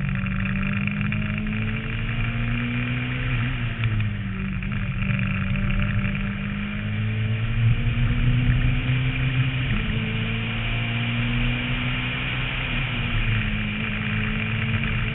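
Renault Mégane rally car's engine driven hard, its note climbing slowly and dropping back three times as it shifts or lifts, heard from a roof-mounted camera over a steady rushing noise.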